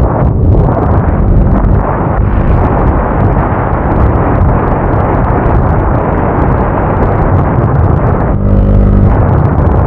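Motorcycle riding along: a loud, steady rushing noise with the engine underneath, and the engine's pitched note coming through clearly for a moment near the end.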